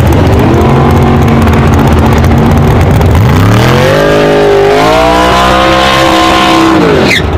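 Chevy V8 of a drag-racing MINI Clubman running steadily and loud. About three seconds in it revs up hard and holds high revs through a smoky tyre burnout. The revs fall away near the end before the sound cuts off abruptly.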